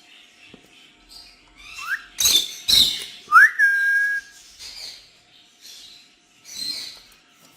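Ringneck parrots calling: harsh squawks and high chirps, with two whistled notes that glide up, the second held at a steady pitch for most of a second.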